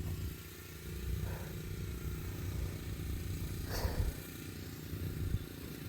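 An engine idling, a low steady rumble.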